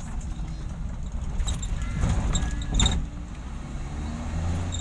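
Steady low rumble of a vehicle on the move: engine and road noise, with a few faint clicks.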